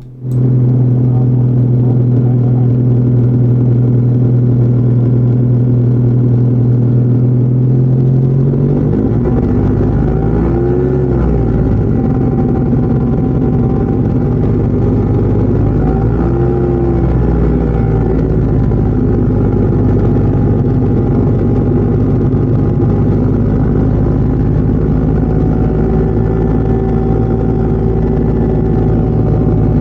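Arcus-M motor glider's engine running during takeoff, a loud steady drone with a strong low hum heard from inside the cockpit. From about nine seconds in, its tone wavers and bends twice before settling again.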